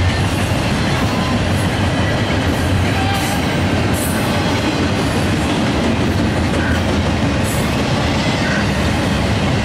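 Double-stack intermodal freight train's well cars rolling past: a loud, steady noise of steel wheels running on the rail.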